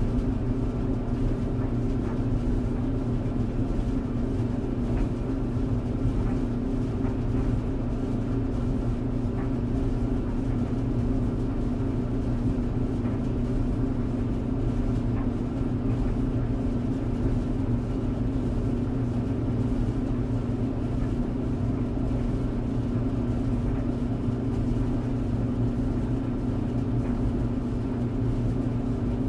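Tumble clothes dryer running: a steady, unbroken hum with a low rumble underneath.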